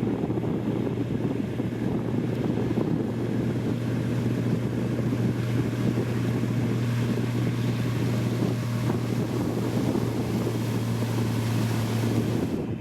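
Diesel engine of heavy road-construction machinery running steadily at a constant speed, a low even hum that stops shortly before the end.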